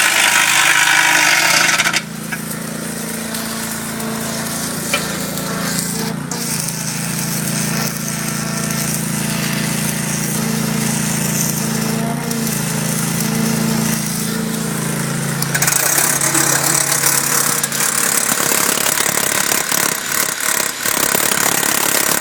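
Power tool work setting anchors into a concrete dock wall: a loud hammering rattle for the first two seconds and again through the last six or so, with a steady motor hum in between.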